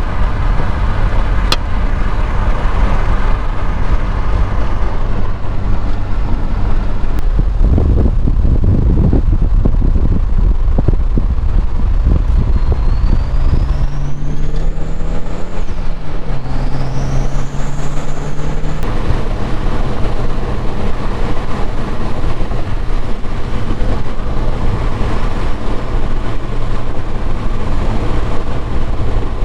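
Car engine and road noise while driving, loud and steady. About halfway through, the engine note climbs and then drops, as at a gear change, and a faint rising whistle sounds twice.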